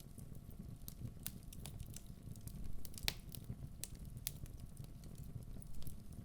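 Logs burning in a wood fireplace: a steady low rush of flame with scattered sharp crackles and pops, the loudest pop about three seconds in.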